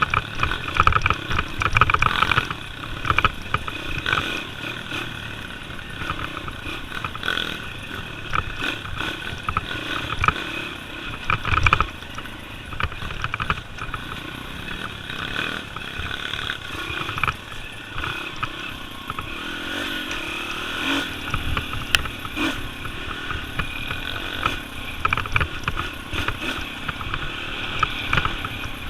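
Pit bike engine running while the bike is ridden off-road, the revs rising and falling, with frequent knocks and clatter from the rough ground.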